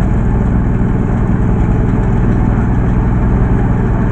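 Engine of a 4LZ-1.2 mini crawler combine harvester running steadily at an even speed.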